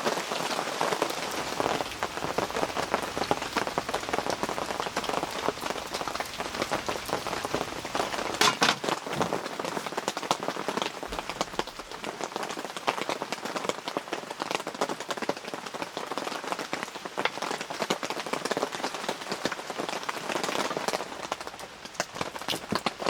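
Rain falling steadily on a surface: a dense, even spatter of drops, with a brief louder cluster of hits about eight and a half seconds in.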